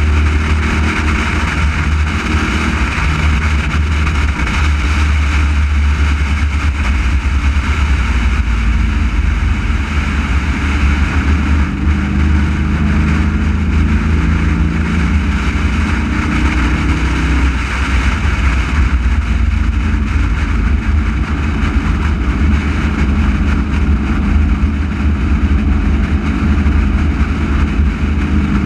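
Race car engine running hard at track speed, its pitch rising and falling with throttle and gear changes, under heavy wind rumble on a hood-mounted microphone.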